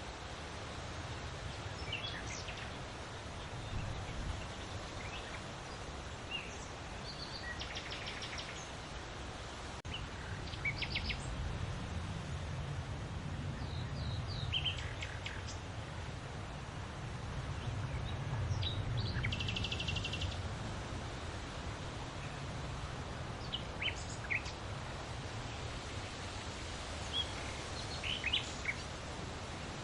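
Several small birds chirping and calling on and off, with two short, rapid trills, one about a third of the way in and one just before two-thirds. A steady low rumble lies underneath.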